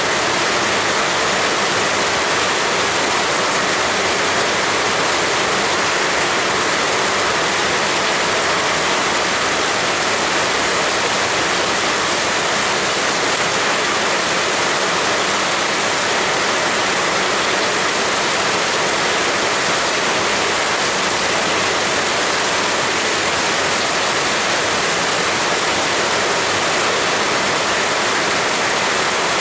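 Heavy rain falling in a steady, dense hiss that doesn't let up.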